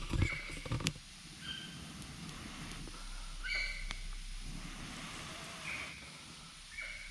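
Campfire crackling with a few sharp pops, under several short high calls from an animal.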